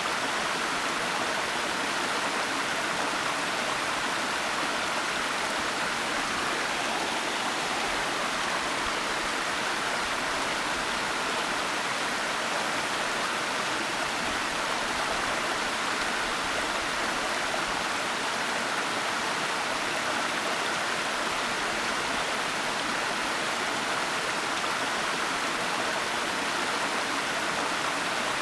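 Waterfall rushing steadily: a continuous, even hiss of falling water with no breaks or changes.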